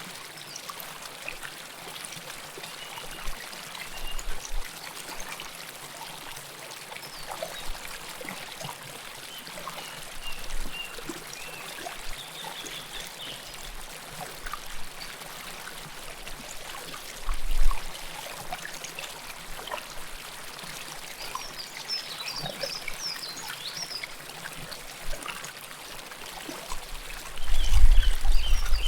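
River water flowing close up: a steady rush with small gurgles and trickles. A low rumble surges briefly about two-thirds of the way through and again near the end.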